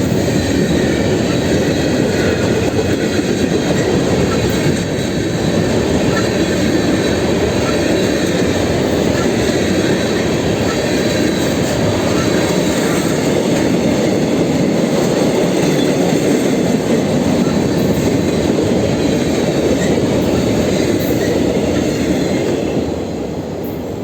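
Train rolling past on the rails: a steady, loud rumble of wheels on track with faint wheel squeal, easing off near the end.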